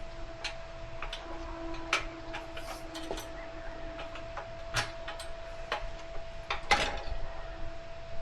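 Tire irons clicking and knocking against a cast aluminium dirt bike rim as the tire bead is levered into the rim lock: a scattering of sharp metal taps, the loudest a little before the end.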